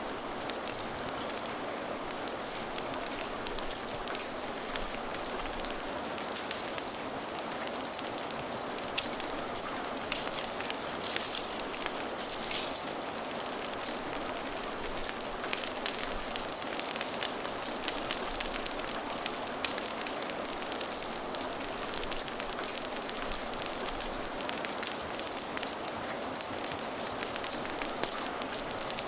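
Steady rain hissing, with a wood fire crackling in small sharp pops scattered throughout.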